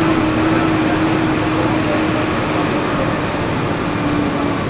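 Volkswagen 17.230 EOD city bus engine running under way, heard from inside the bus: a steady engine drone over road noise, its tone sinking slightly lower toward the end.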